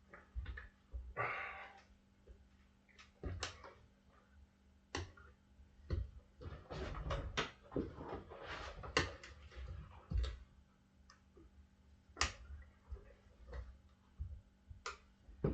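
Irregular clinks, knocks and short scrapes from tire irons levering a dirt bike tire and bead lock onto the rim, with a faint steady hum underneath.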